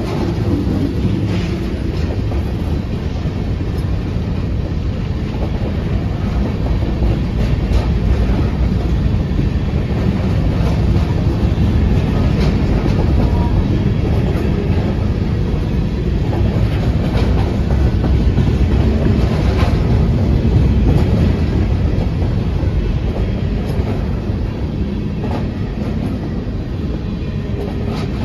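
CSX freight train's tank cars and covered hopper cars rolling past close by: a steady rumble of steel wheels on the rails with clickety-clack over the joints and a few sharp clicks.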